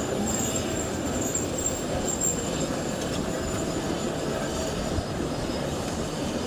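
Furka steam train's carriages rolling over the rails on a curve, heard from aboard: a steady running rumble with a high-pitched wheel squeal that comes and goes in the first two seconds or so.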